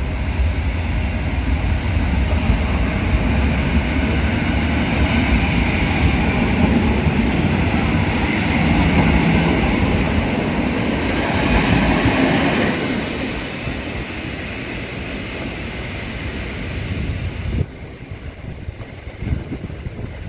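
EN57 electric multiple unit running along the track, its wheels clattering over rail joints. The noise builds to a peak about two-thirds of the way through, then fades, with a sudden drop near the end.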